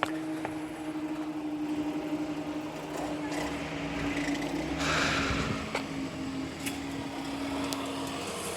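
A vehicle's engine humming steadily, its tone sinking slightly in pitch and stopping near the end, with a louder rush of noise about five seconds in.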